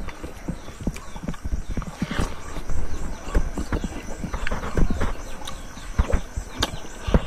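A man chewing and smacking his lips while eating rice by hand: an irregular run of wet mouth clicks and smacks.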